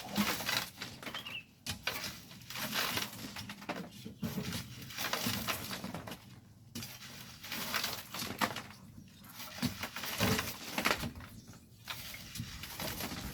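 Hand shovels scraping into and throwing volcanic sand and gravel, an irregular gritty scrape every second or two.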